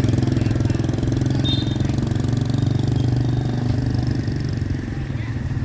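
An engine running steadily with a low, rapidly pulsing hum, easing slightly near the end.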